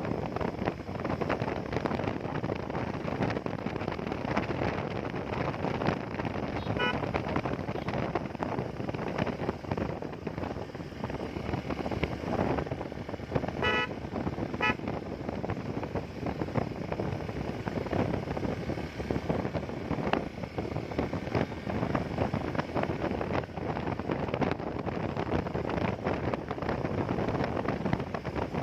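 Wind rushing over the microphone and road noise on a moving motorcycle, with short vehicle-horn toots about a quarter of the way in and twice around halfway.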